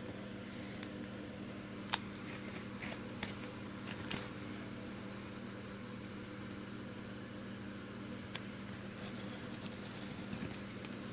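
Scattered light clicks and scrapes of a cardboard parcel being worked open, over a steady low hum.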